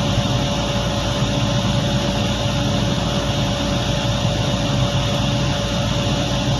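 Heavy diesel machinery running steadily: a deep, even engine drone with a constant hum over it and no change in speed.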